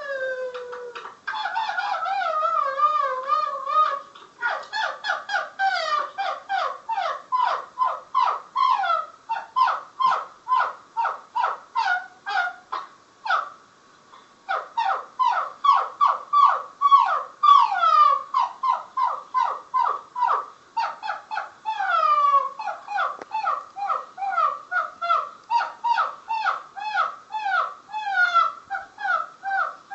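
An animal's high-pitched calls: a long wavering call, then a long run of short calls, about two or three a second, each sliding down in pitch, broken by a short pause about halfway through.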